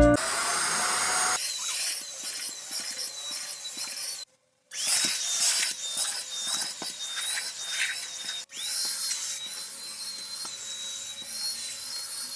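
Handheld vacuum cleaner running, a steady high-pitched motor whine over airflow hiss. It cuts out for about half a second around four seconds in, and briefly again later.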